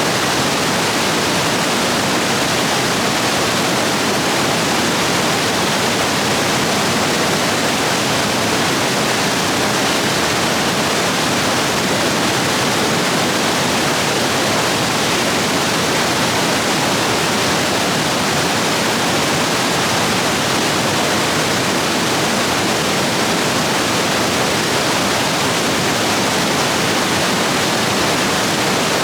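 Stream rapids swollen by heavy rain, a steady, loud rush of whitewater.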